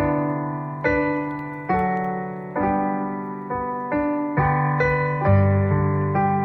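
Slow, gentle piano music: single notes struck one after another, roughly one or two a second, each ringing and fading over held low bass notes.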